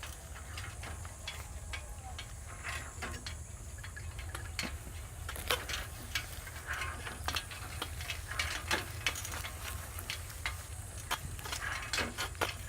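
A bicycle being ridden, with irregular clicks and rattles from its chain and freewheel over a low steady rumble.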